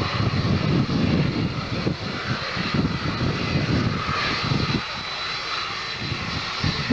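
Jet airliner's engines running: a steady rush over an uneven low rumble that eases a little about two-thirds of the way through.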